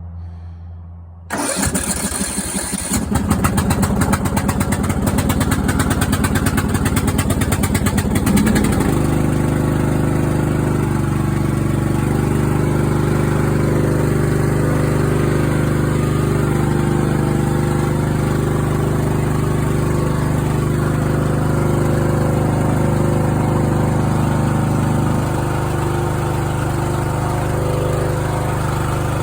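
Craftsman riding mower's engine starting about a second in: it turns over and catches, runs with a fast uneven beat for several seconds, then settles into steady running. It starts after a new spark plug and fuel treatment for suspected water in the fuel.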